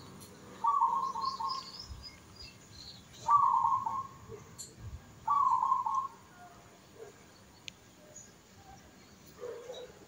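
A bird chirping in three short, fluttering bursts a couple of seconds apart.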